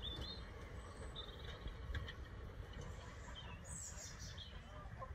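Several short bird chirps over a faint, steady low rumble of outdoor ambience.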